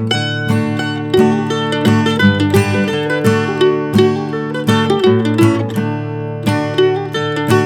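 Mandolin picking a quick run of notes in a fiddle tune, over a lower plucked-string accompaniment such as guitar.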